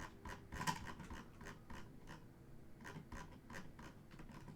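Trading cards slid one after another through the hands, a quick run of light scraping strokes about three to four a second.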